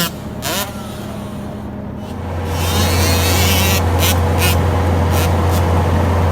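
Dirt bike engine running. A strong steady low drone comes in about two seconds in, with several short sharp clicks over it.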